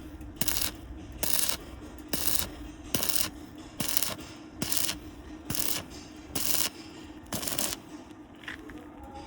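Rhythmic scraping or rasping strokes, about one a second, nine in all, stopping near the end, over a faint steady hum.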